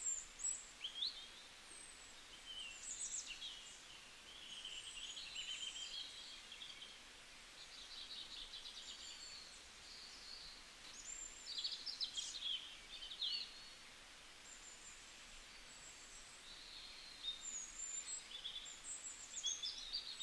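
Birds chirping and trilling: many short high chirps, whistles and buzzy trills over a faint steady hiss, with a quieter spell about two-thirds of the way through.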